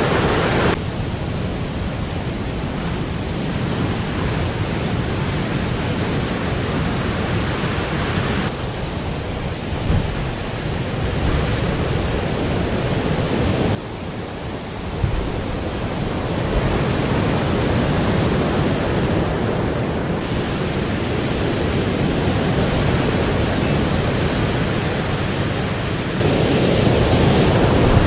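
Heavy typhoon-driven surf breaking on the shore, with strong wind buffeting the microphone. The noise is loud and unbroken, changing abruptly in level and tone several times.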